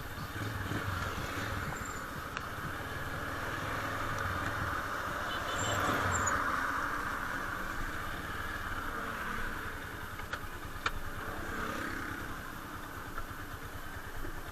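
Motorcycle engine running, with a steady hiss over a low rumble.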